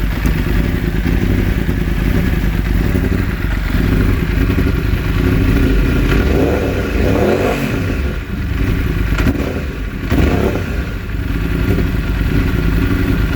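2016 Yamaha R1's crossplane inline-four engine running, with the revs shifting and a couple of brief dips in level around the middle. The bike misfires when its riding mode is changed.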